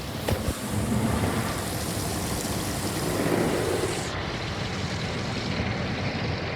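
Ryko Soft Gloss MAXX 5 car wash spraying water and wax solution onto the car, heard from inside the cabin as a steady rush with a couple of light knocks near the start; the high hiss of the spray cuts off abruptly about four seconds in.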